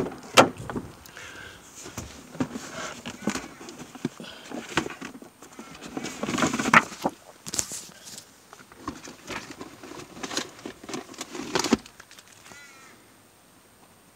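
Irregular clicks, knocks and rustling from someone handling things, mixed with harsh animal calls; it goes quiet about twelve seconds in.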